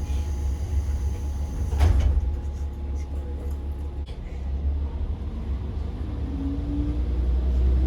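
Interior of a diesel railcar under way: a steady low rumble from the engine and running gear, building toward the end. There is one sharp knock about two seconds in.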